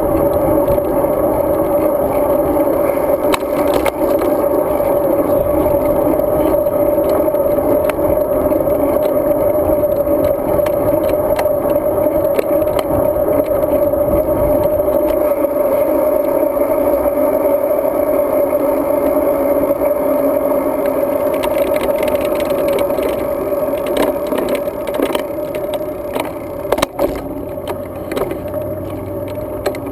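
Road-bike riding noise heard through a GoPro Hero 2: a steady, muffled drone of wind and tyres with scattered rattles and knocks from bumps in the road. It eases off a little after about twenty seconds, with a couple of sharp knocks near the end.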